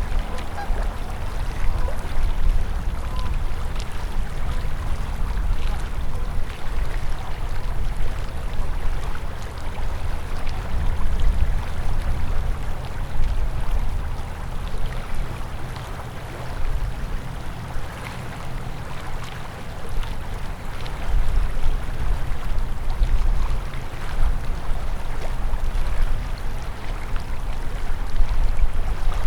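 Winter river flowing steadily, a continuous rush of water with a strong low rumble underneath.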